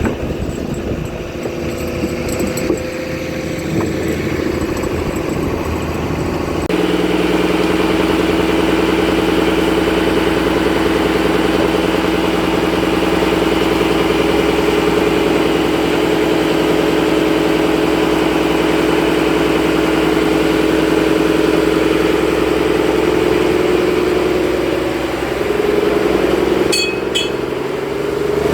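Fishing boat's engine running steadily with an even hum. The engine note shifts abruptly about seven seconds in, then holds steady.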